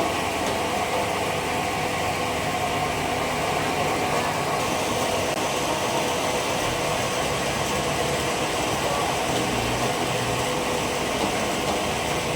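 Sawmill band saw running steadily: a continuous mechanical noise with a faint steady whine.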